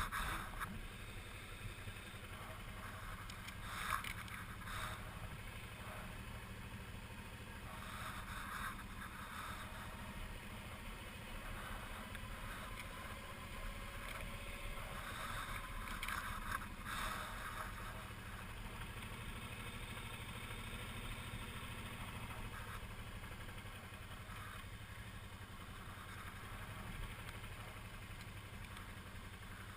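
Suzuki V-Strom 650 V-twin motorcycle running steadily on the move, a low engine drone under wind noise, with a few brief swells.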